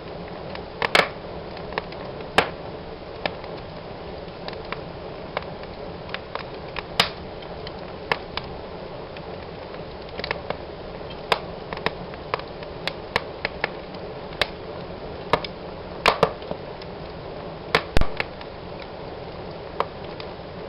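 Wood fire burning in a fireplace: a steady low hiss of flames with irregular sharp crackles and pops, the loudest about a second in and near the end.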